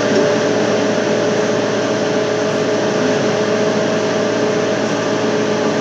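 Trailer refrigeration unit (reefer) running steadily, a constant hum with two steady tones over a broad mechanical rush.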